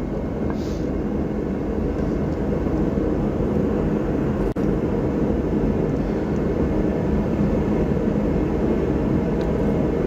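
A steady, even rushing drone with no distinct knocks or clicks. It drops out briefly about four and a half seconds in.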